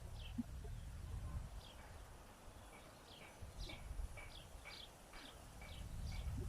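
Small birds chirping: a string of short, high calls that each slide downward, coming faster in the second half, over a low rumble.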